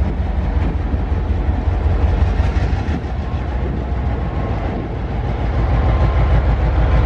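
Train running past or carrying the microphone: a loud, steady, deep rumble with rail-car noise.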